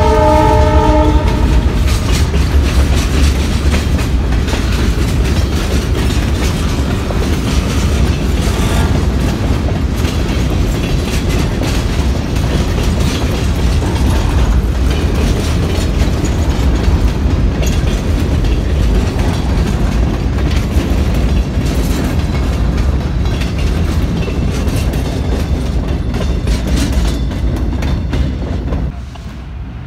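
Canadian Pacific freight train cars (covered hoppers, a tank car and boxcars) rolling past: a steady heavy rumble with rattling and wheel clacking over the rail joints. A train horn's chord sounds at the start and stops about a second in, and the noise drops away sharply just before the end as the last car goes by.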